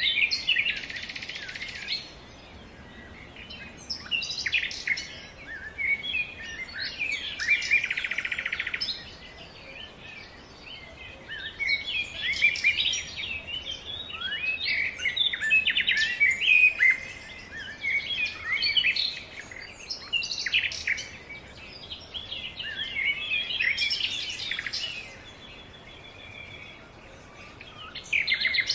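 Small songbirds chirping and twittering in quick clusters of short, varied notes, with lulls between the clusters.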